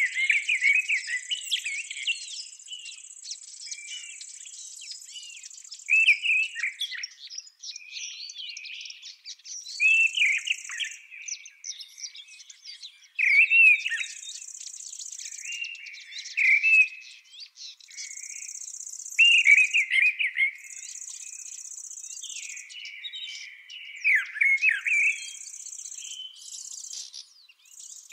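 A songbird singing short warbling phrases, one every few seconds. Over it is a high insect buzz of stridulation, steady for the first several seconds and then in bursts of a second or two.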